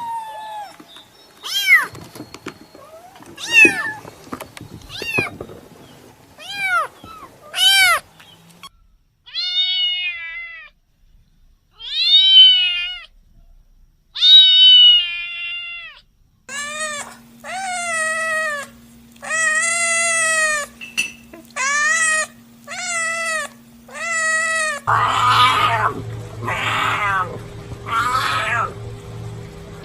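Cats meowing again and again, a string of short meows that rise and fall in pitch, one after another.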